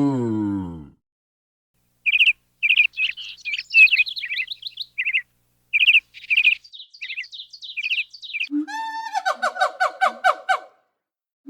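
A low falling animal call fades out in the first second. After a short pause a bird chirps in quick, high notes for about six seconds, then a rapid run of harsher repeated calls begins near the end.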